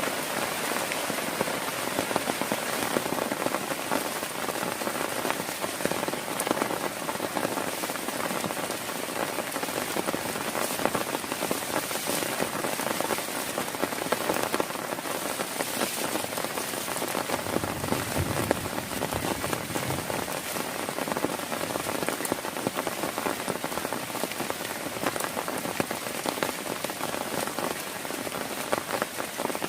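Heavy rain falling steadily, a dense patter of many drops on a surface, with a brief low rumble a little past the middle.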